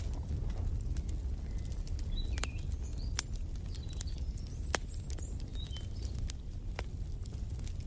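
Wood fire crackling with frequent sharp pops over a low steady rumble, with a few short bird chirps in the middle.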